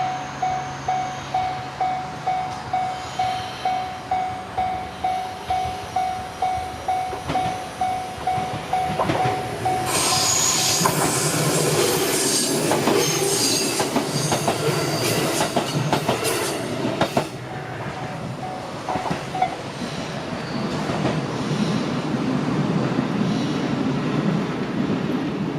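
A Japanese level-crossing warning bell rings at about two strokes a second. About ten seconds in, a train passes over the crossing: wheels click over the rail joints with a high squeal, then it runs on more quietly as it moves away.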